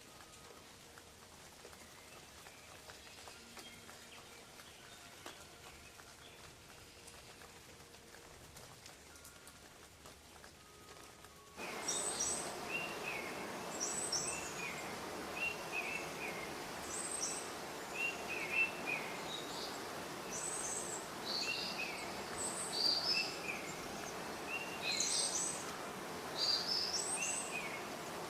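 Very faint background hiss, then about twelve seconds in steady rain comes in abruptly, with songbirds chirping over it in short, repeated high calls.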